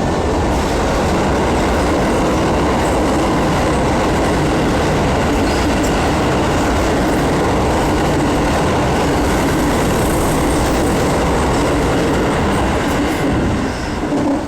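Keio Line train passing close by at the Shimotakaido level crossing: a loud, steady rush and rumble of wheels on rail that eases near the end.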